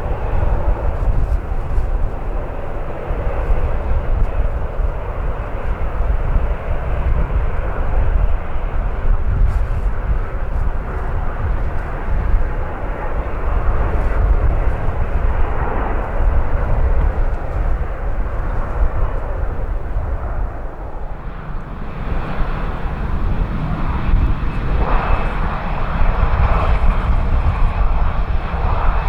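Airliner engine noise at an airport, a continuous roar over a heavy low rumble of strong wind on the microphone. About twenty seconds in the sound changes, and a faint steady high whine joins the roar.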